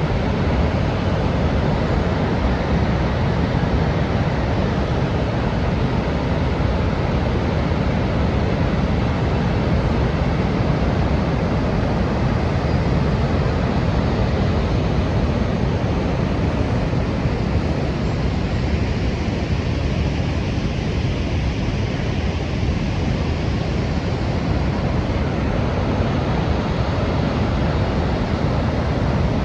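Water pouring over Niagara Falls: a constant deep rush that holds steady without a break.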